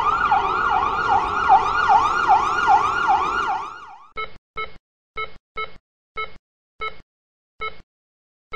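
Emergency-vehicle siren on a fast yelp cycle, about two and a half sweeps a second, fading out about four seconds in. Short electronic beeps follow, spaced further apart as they go.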